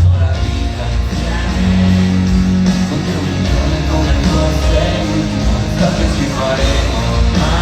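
Loud live band music through a concert PA, with a steady bass line and some singing over it.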